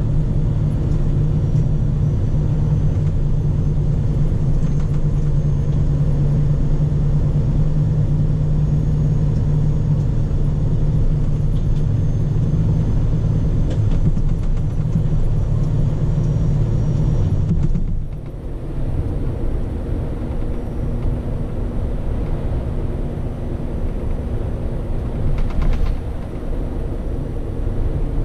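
Scania P400 truck's diesel engine running with a steady low drone. About eighteen seconds in the engine note drops away and the sound becomes quieter and rougher.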